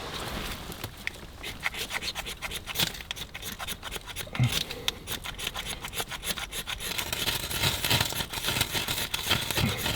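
Ferro rod being struck over and over, a quick run of rasping scrapes, throwing sparks onto birch bark tinder to light a fire.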